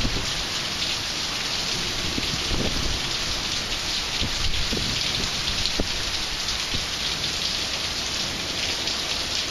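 Heavy rain pouring down steadily on pavement and surfaces, a constant hiss, with the odd heavier drop splashing close by.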